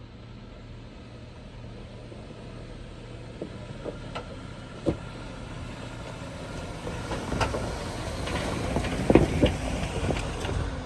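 Jeep Wrangler crawling slowly over a rocky trail: a steady low engine hum, with scattered crunches and knocks of tyres on rock and gravel that grow louder and more frequent in the second half.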